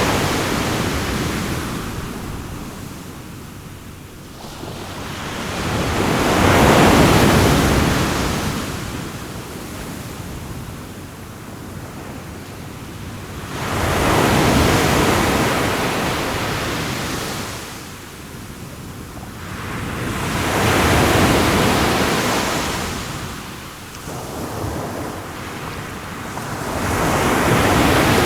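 Ocean waves washing onto a shore, each one swelling to a rush and then drawing back, about every seven seconds.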